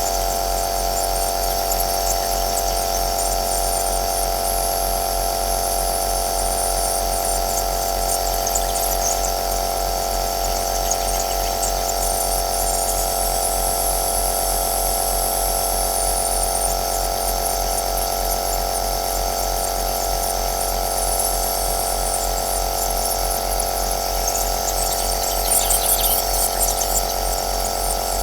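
A compressor nebulizer running steadily: a constant motor hum with a fixed whine and a hiss of air. It gets briefly louder and more hissy near the end.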